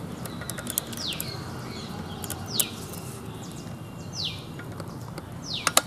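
A bird calling four times, each call a short downward-sliding whistle, about a second and a half apart. Between the calls come scattered light metallic clicks of a saw chain's links being pressed onto a chainsaw guide bar.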